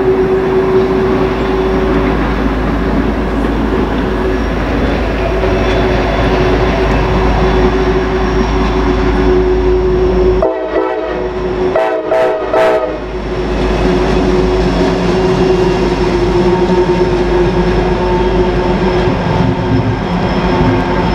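Norfolk Southern diesel train rolling past with a steady rumble and a continuous whine over it. About ten seconds in the locomotive horn sounds two short blasts, a second or so apart.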